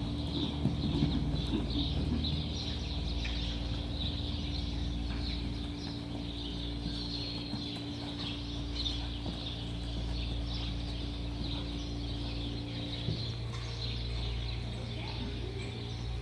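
Birds chirping continuously over a steady low hum.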